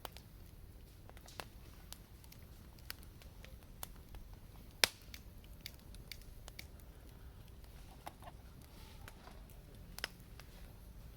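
Wood fire crackling, with scattered sharp pops and snaps at irregular intervals. The loudest pops come about five seconds in and again near ten seconds.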